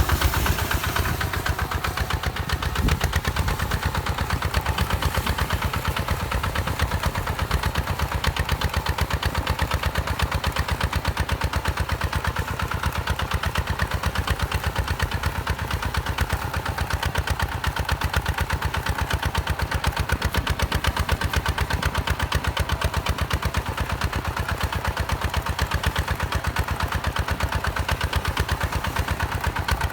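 Hinota HG Gold 155 DI diesel engine running steadily at an even, rapid chug.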